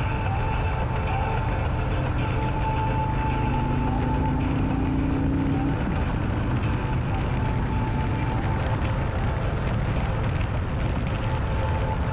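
Harley-Davidson Street Glide's V-twin engine running steadily at cruising speed, with wind rushing over the microphone.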